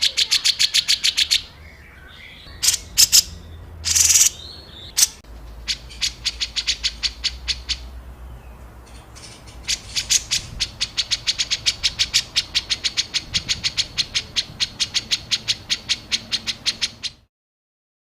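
Songbird giving harsh, rapid-fire 'tembakan' calls: long runs of sharp, high, clicking notes at about six a second, broken by a few single louder notes. This is a typical masteran tutoring recording for cage songbirds. It cuts off abruptly near the end.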